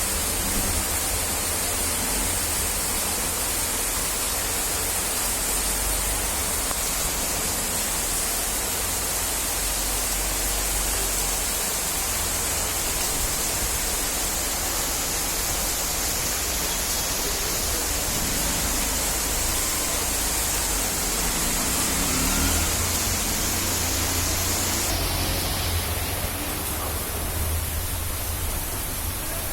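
Steady heavy rain, a dense even hiss with a low rumble underneath; the highest part of the hiss drops away about twenty-five seconds in.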